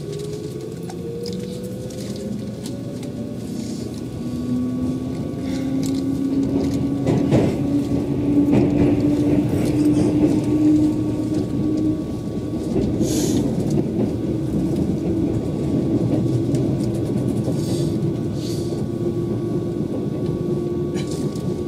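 Keihan 8000 series electric train under way, heard from inside the car: a steady rumble of the running train with a motor whine that climbs slowly in pitch as it gathers speed, and a few short clicks.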